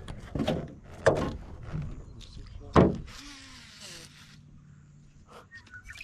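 Clicks and knocks from handling a baitcasting rod and reel, the loudest a sharp knock about three seconds in, followed by about a second of hiss as the cast is made, then a few faint ticks.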